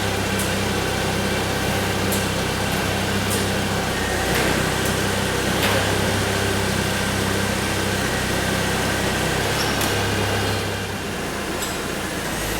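A machine running with a steady low hum, with scattered clicks and knocks of work over it; the hum drops away about eleven seconds in.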